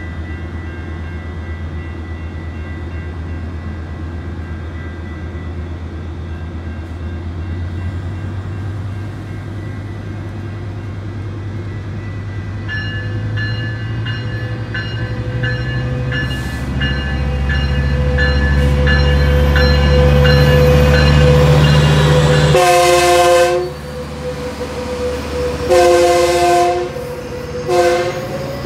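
Approaching Metrolink commuter train: a low diesel rumble builds as it nears, a bell rings steadily over it, then the horn sounds two long blasts and a short one as it arrives.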